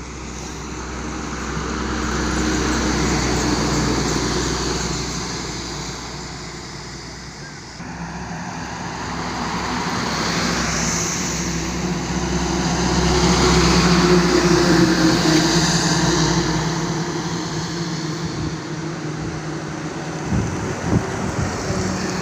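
Heavy vehicles passing on a highway, one after another: engine and tyre noise swells to a peak about three seconds in, fades, then builds to a louder pass about fourteen seconds in. A couple of short knocks come near the end.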